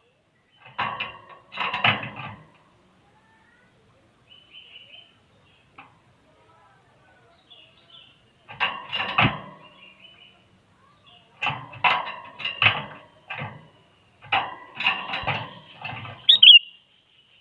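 Sooty-headed bulbul singing in four short loud phrases a few seconds apart, with a sharp whistled note near the end.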